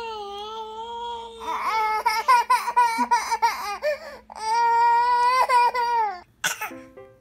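A baby crying: a long held wail, then broken, wavering sobs, then another long held wail that stops about six seconds in. Piano-like music starts just before the end.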